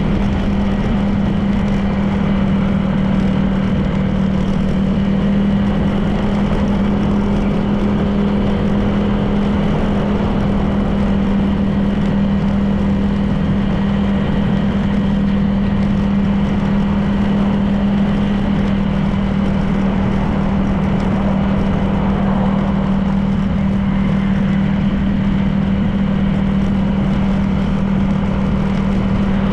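Honda PCX 160 scooter's single-cylinder engine running steadily at a cruise, with a constant hum and road and wind noise.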